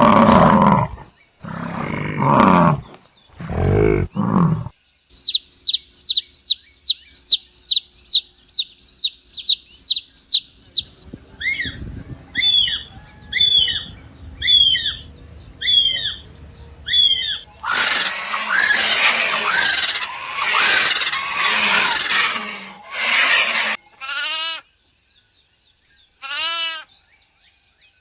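A run of different animal calls, one after another. It opens with low, rough growling calls, then rapid high bird chirping about twice a second, then a bird's paired falling whistles about once a second, then a dense, noisy chorus of overlapping calls. It ends with a few falling bleats of a goat or sheep.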